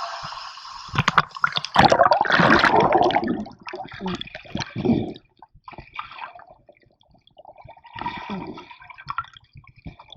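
Stream water splashing and running in irregular bursts, with sharp knocks among them; loudest about two to three seconds in, then coming and going, nearly dying away in the middle.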